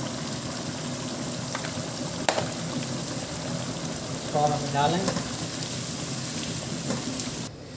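Chicken tikka masala gravy sizzling steadily as it cooks in a pan, stirred with a spatula in the later seconds. The sizzle cuts off abruptly just before the end.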